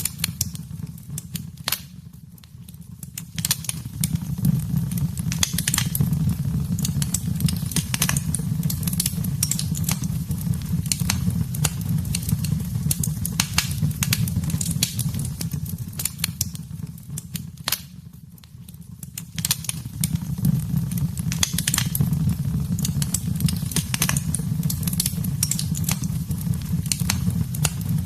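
Wood fire burning in a fireplace: a low steady rumble with frequent sharp crackles and pops. The rumble fades down twice, about two seconds in and again around eighteen seconds, then builds back.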